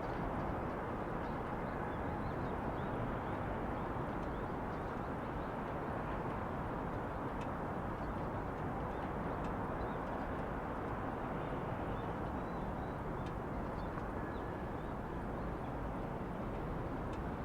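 Steady outdoor city ambience: a continuous even hum of distant traffic and the city, with faint scattered bird chirps over it.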